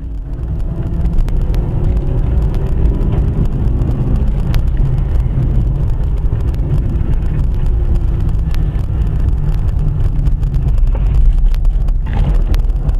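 A car driving: a steady, loud low rumble of engine and road noise, with faint engine tones drifting slightly in pitch and a few light clicks.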